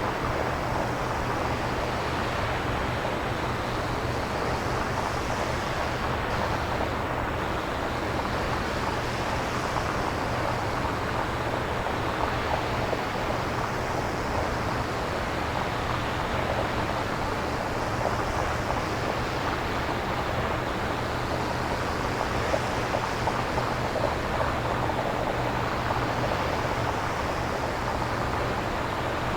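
Synthesized nature-style ambience from a synthesizer with no recorded samples: a steady wash of noise over a low rumble. The upper hiss swells and eases slowly every several seconds, like surf or wind.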